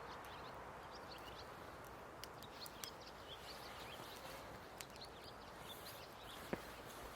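Small wood fire crackling faintly in a camp stove, with scattered sharp pops and clicks over a quiet outdoor background and faint high chirps.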